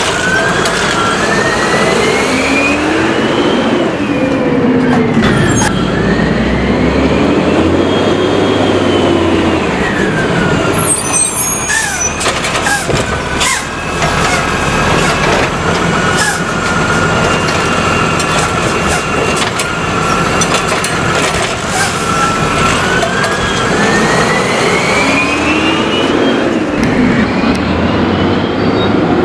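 Curbtender recycling truck's engine revving up and falling back several times as the truck works, with a run of metallic clanks and rattles around the middle.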